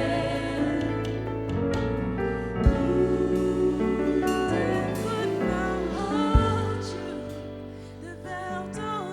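Gospel worship music: a singer holding long, wavering notes over sustained keyboard chords and bass, with two drum thumps, about three seconds apart.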